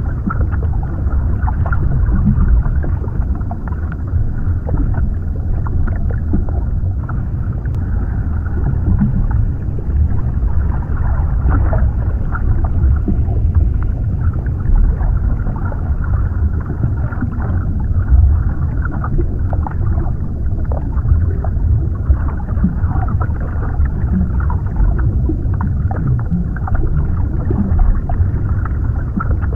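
Underwater ambience: a deep, steady, muffled rumble of water, with many small crackles and pops scattered through it.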